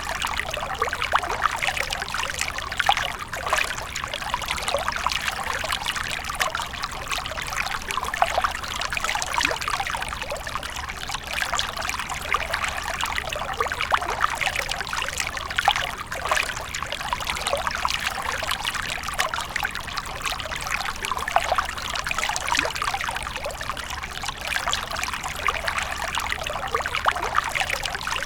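Water fountain splashing and trickling steadily, many small drops and streams falling into water without pause.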